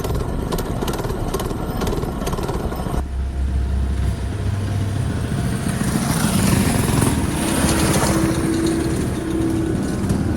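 Mini bike engine running as it is ridden, with a steady low rumble. The sound changes abruptly about three seconds in, and a rushing swell builds and fades in the middle.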